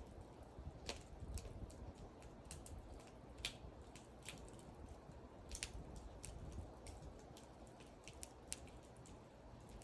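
Wood fire crackling and popping: sharp irregular snaps over a low, steady rumble of burning.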